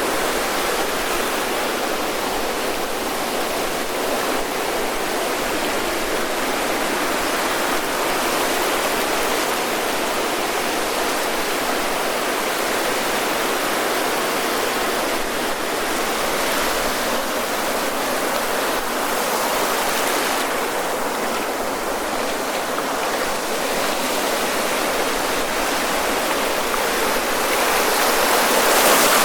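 Ocean surf breaking and washing up the shore in a steady rush, swelling louder near the end.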